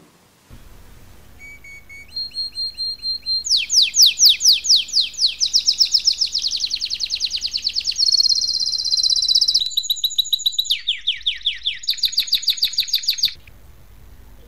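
Songbird singing: a few short high notes, then a run of fast trills of rapid downward-sweeping chirps that change pitch every second or two, stopping about a second before the end. A faint low hum runs underneath.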